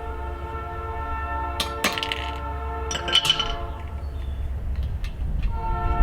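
A few sharp metal clinks and knocks around two and three seconds in, as a grill wheel and its end cap are fitted onto the axle. Behind them a distant train horn holds a steady chord with a low rumble, fading out in the middle and coming back near the end.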